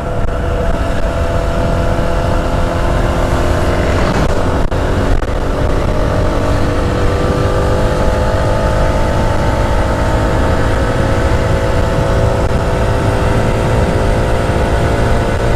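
Motorcycle engine running at highway cruising speed, its pitch easing slowly lower through the second half, over heavy wind rumble on the rider's microphone.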